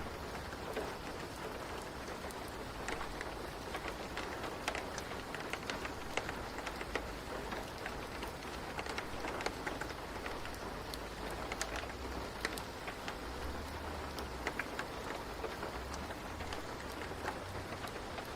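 Steady rain ambience, mixed with scattered sharp crackles of a wood fire.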